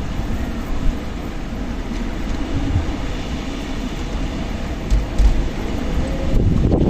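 Strong wind blowing in gusts, buffeting the microphone with a low rumble.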